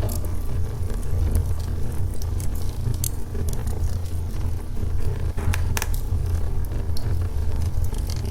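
Wood fire of burning logs crackling, with frequent sharp pops and snaps over a steady low rumble of the flames; a louder pair of pops comes a little past the middle.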